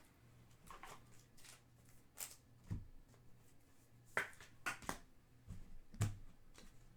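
Trading cards being handled: faint, scattered clicks and soft rustles as cards are slid and flipped by hand, about ten small taps spread unevenly.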